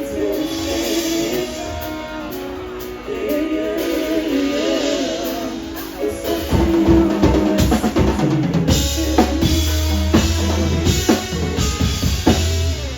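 Live band music: held chords for the first few seconds, then the drum kit comes in about six seconds in with rapid hits, and a heavy bass note joins a little later. The music cuts off at the end as the song finishes.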